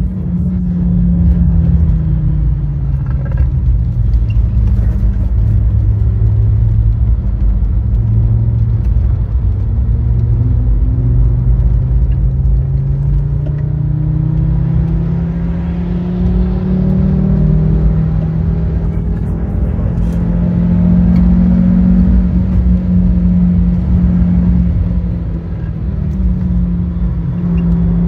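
Fiat Stilo Abarth's 2.4-litre 20-valve five-cylinder engine running under way on a lap. Its pitch drops over the first few seconds, then climbs slowly for about ten seconds, and dips briefly near the end before rising again, over a steady low road rumble.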